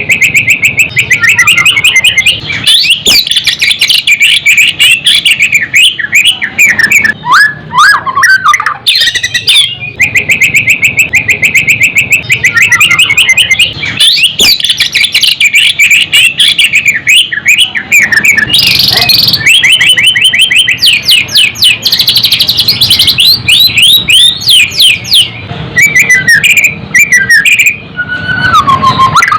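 White-rumped shama singing a loud, nearly unbroken song: long runs of rapidly repeated short notes and trills, mixed with sweeping whistled phrases and a few brief pauses.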